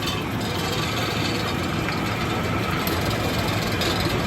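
An engine running at a steady idle, a low continuous hum under street noise.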